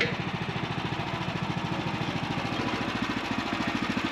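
Small gasoline engine of a sawmill idling with a steady low pulsing, growing slightly fuller in the last second, with a short knock right at the start.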